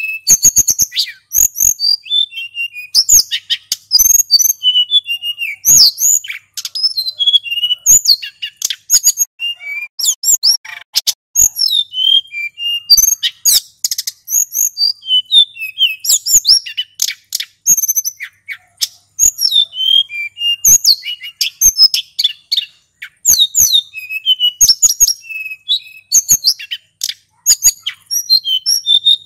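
Male sulingan gunung singing non-stop in long rolling runs: rapid high-pitched whistled notes, trills and chips following one another with almost no pause, with sharp clicks scattered among the notes.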